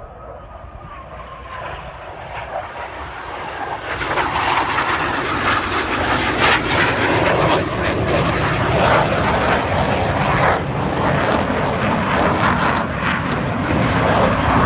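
Blue Angels F/A-18 jets making a low pass; the jet noise builds over the first four seconds and then stays loud.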